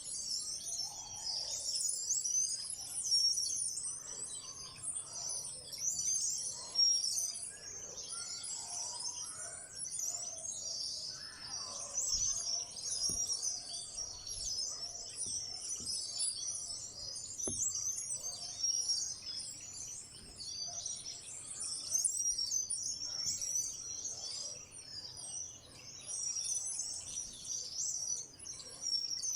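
A flock of small wild birds chirping and twittering without pause, a dense high-pitched chorus of many overlapping calls.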